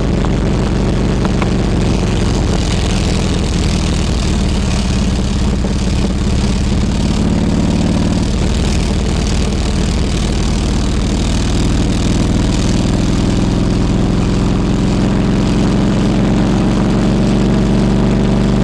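Harley-Davidson Road King Classic's V-twin engine idling steadily, with a slight rise in pitch near the end.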